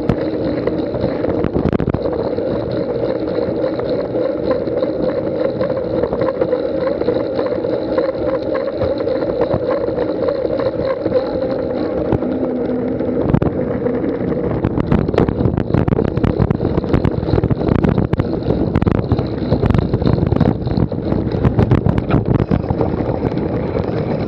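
Cyclocross bike being ridden at speed: a steady rush of wind and tyre hum, turning about halfway through into a dense rattling and clattering as the bike goes over rough ground.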